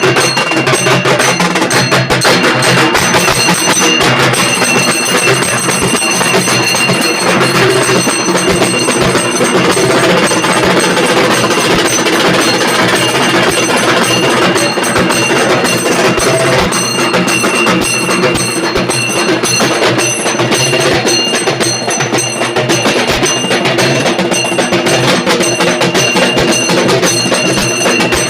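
Halgi frame drums of a group playing together with sticks: loud, fast, dense strokes in a continuous rhythm, with a steady high ringing tone over the drumming.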